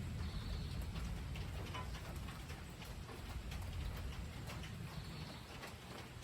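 Rain dripping in scattered, irregular drops over a low rumble of distant thunder that slowly fades.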